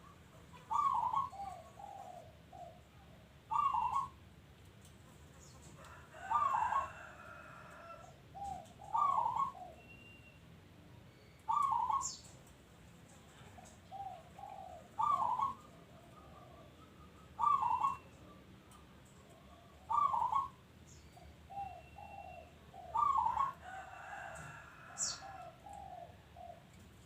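A local zebra dove (perkutut) singing its cooing song over and over, about nine phrases, one every two to three seconds. Each phrase is a loud opening note followed by a run of softer, lower coos.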